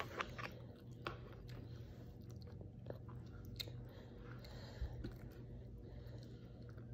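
A toddler chewing a mouthful of rice, faint, with a few light scattered clicks as a plastic spoon works in a plastic bowl.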